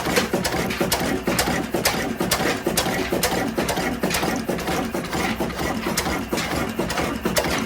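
18-horsepower stationary diesel engine running steadily, with a regular knocking beat of about four strokes a second.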